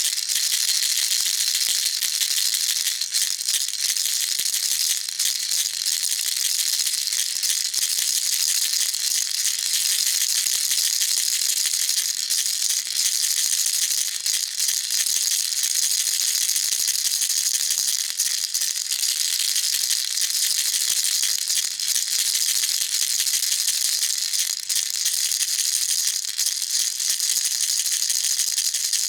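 Baby rattle shaken continuously: a dense, steady, high-pitched rattle of small beads clicking inside it.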